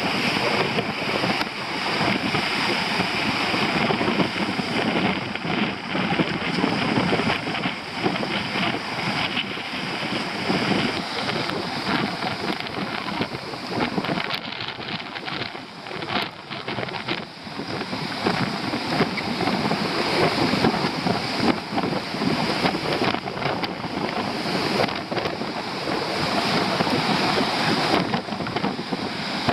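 Strong wind buffeting the microphone over storm waves breaking on the shore, in a dense noise that swells and eases in gusts.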